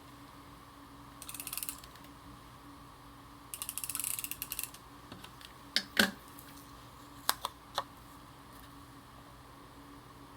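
Adhesive tape runner drawn along a paper edge, its mechanism giving two short runs of rapid fine clicking, followed by a few separate sharp clicks.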